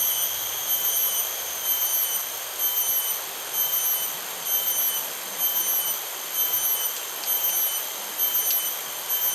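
An insect's high, thin, steady chirping that pulses in a regular rhythm about once a second. One or two faint short chirps come near the end.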